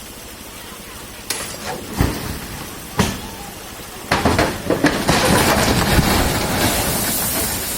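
Hammer blows striking a truck: single hard knocks about a second apart, then a quick run of blows that gives way to a rushing, clattering crash.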